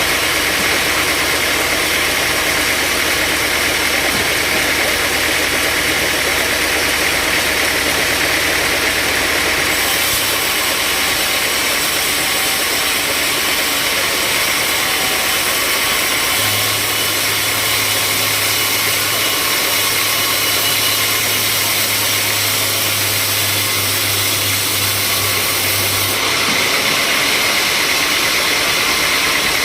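Sawmill machinery running steadily: a loud engine drone with a high, even hiss on top. Its low hum changes pitch about ten seconds in, again a few seconds later, and near the end.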